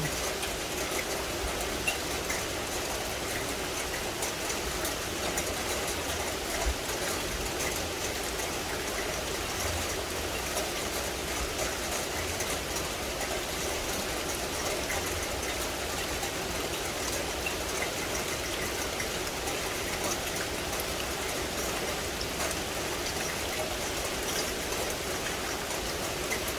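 Steady rain falling on a forest, many fine drop patters over a continuous wash of rainfall.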